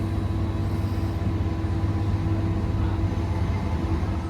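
Steady low rumble and hum inside the carriage of a Northern class 323 electric multiple unit, with a steady mid-pitched tone that fades out near the end.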